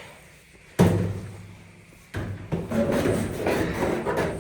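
A hollow thump about a second in that rings down over about a second, then a run of knocks and rubbing as the dryer's parts are handled and fitted back in place.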